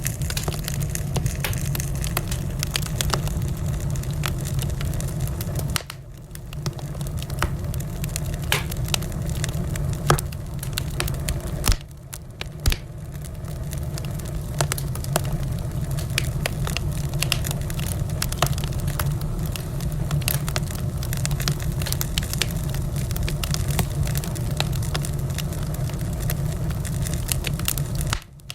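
Wood fire crackling in a fireplace: a steady stream of small snaps and pops over a low rumble, with a few louder pops about ten to thirteen seconds in.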